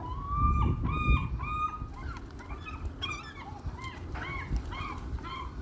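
Several gulls calling over one another: three drawn-out cries in the first two seconds, then a jumble of shorter overlapping calls, with a low rumble underneath.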